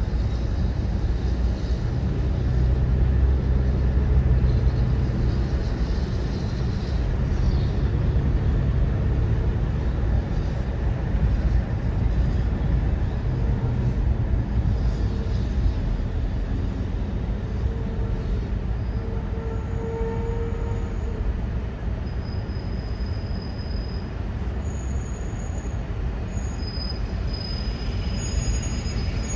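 Heavy trucks driving past: a steady engine rumble with road noise, loudest about three to five seconds in. A few short, thin high squeals come through in the second half.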